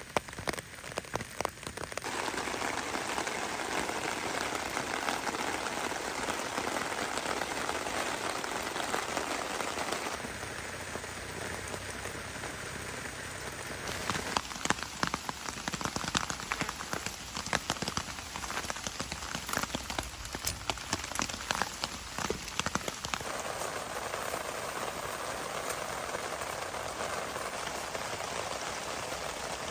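Heavy rain falling steadily, drops pattering on surfaces. The sound changes abruptly several times, and in the middle stretch there are many sharp, close drop hits.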